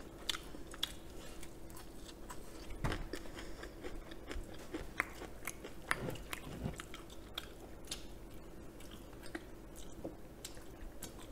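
Quiet, close-miked chewing and biting of crispy fried chicken topped with shredded green onions: scattered small crunches and mouth clicks.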